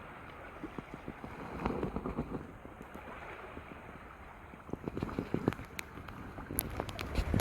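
Water sloshing and splashing around a kayak, with scattered short knocks and splashes, some clustered about two-thirds of the way in and again near the end. Wind is on the microphone.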